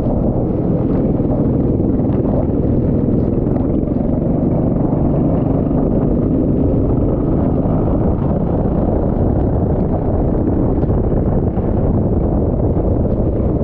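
Go-kart engine running at speed, buried in a loud, steady rumble of wind on the microphone.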